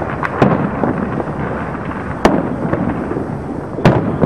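Aerial fireworks display: sharp bangs of shells bursting, two in quick succession just after the start, a loud one about halfway and another near the end, over a steady background din.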